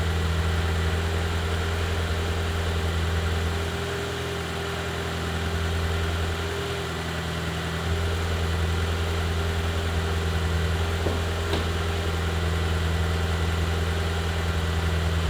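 BMW E36 engine idling through a new custom exhaust with a deep bass note, its idle sagging briefly a few seconds in and then steadying. It runs with the lambda sensor disconnected and won't rev.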